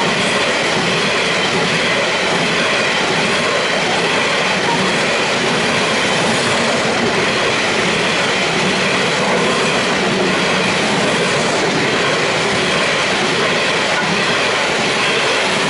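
Loaded coal hopper wagons of a long freight train rolling past close by: the steady, loud clatter of steel wheels on the rails.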